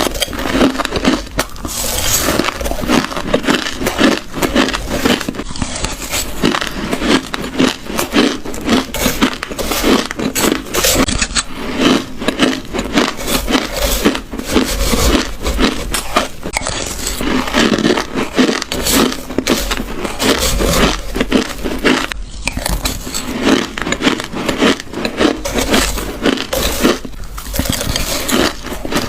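Close-miked chewing of a mouthful of shaved ice: a dense, continuous run of crunching and crackling bites with no pause.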